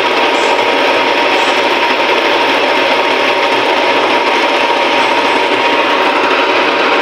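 Metal-working lathe running steadily while machining an SS202 stainless steel nut, an even, unbroken machining noise with a faint steady tone through it.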